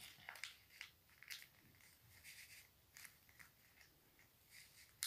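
Faint rustling and crinkling of paper being folded and creased by hand, in scattered short bursts.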